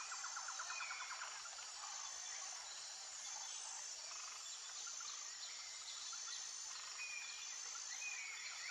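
Nature ambience of birdsong over a steady high insect hum: short whistled chirps, and a rapid pulsed trill in the first second and again near the end.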